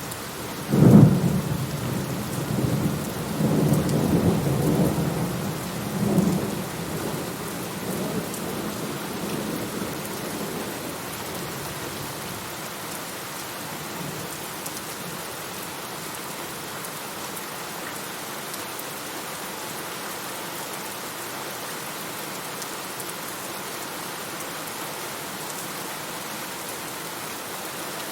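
Thunderstorm: steady rain with a sharp thunderclap about a second in that rolls into rumbling for several seconds and fades out, leaving the steady rain.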